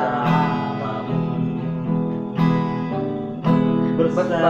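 Acoustic guitar strumming chords as song accompaniment, with a new strum every second or so.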